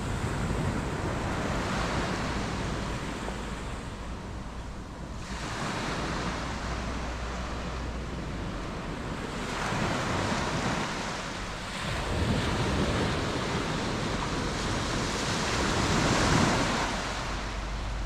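Surf washing onto a sandy beach, the noise of the breaking waves swelling and falling back several times, the last surge the loudest, with a low rumble of wind on the microphone underneath.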